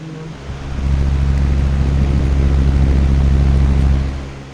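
Air from a running Lasko box fan blowing straight onto the microphone: a loud low rumble that swells in about half a second in, holds steady for about three seconds, and dies away near the end.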